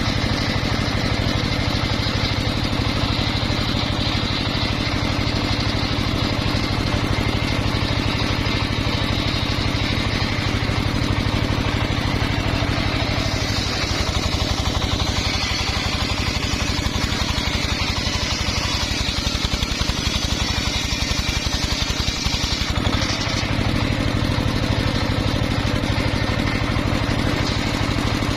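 Engine-powered saw running steadily. For about ten seconds in the middle the sound turns hissier and its low hum weakens.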